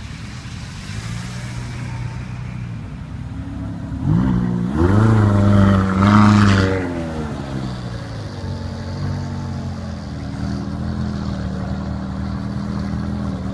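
Car engine running in traffic. About four seconds in, an engine revs up sharply and holds high for a couple of seconds, then drops back to a steady hum after about seven seconds.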